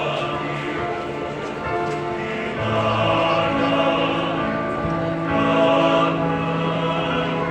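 A choir singing in harmony, several voices holding long notes, moving to a new, louder chord about two and a half seconds in.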